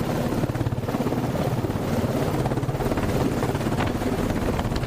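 Helicopter running close by, its rotor beating in a fast, steady chop.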